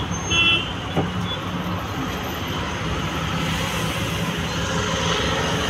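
Steady running noise of a motor vehicle, a low hum under an even rushing noise.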